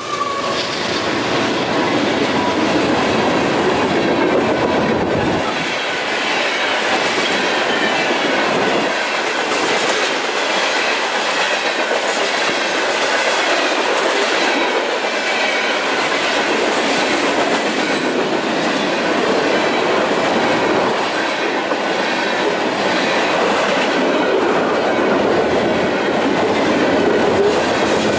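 Freight train rolling past at speed, with the continuous rumble and clatter of its cars' wheels over the rails.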